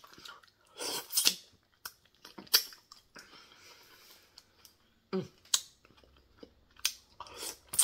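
Close-miked wet chewing and lip smacking of juicy cantaloupe melon, with irregular sharp mouth clicks. A brief closed-mouth hum about five seconds in.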